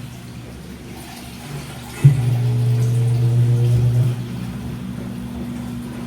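Washing machine running, its drum motor starting with a click about two seconds in, humming for about two seconds, then stopping, over a quieter background; the on-off turning of the drum is typical of a wash cycle.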